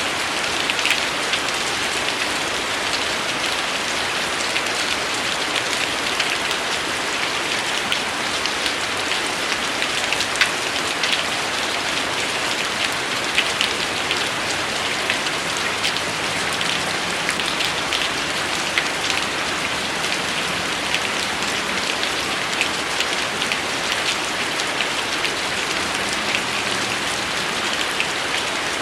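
Steady rain falling, a continuous hiss dotted with many separate drops heard as short ticks.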